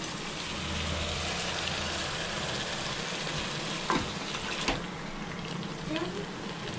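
Onion and spice masala sizzling steadily in oil in a steel kadai, fried until the oil separates, as yogurt-marinated chicken is tipped in from a steel bowl. A couple of clinks of the bowl against the pan come about four and five seconds in.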